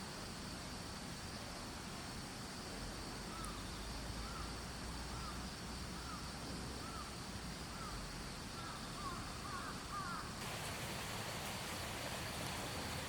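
A bird calling a short, arched note over and over, about once a second, the notes quickening and doubling near the end before stopping. Steady insect chirring runs under it.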